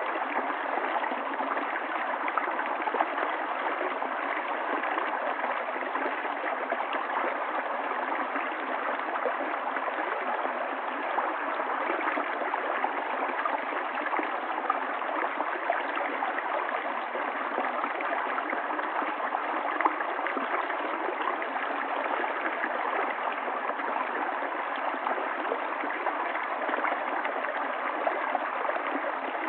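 Running water of a stream, a steady, even rush that holds unchanged throughout.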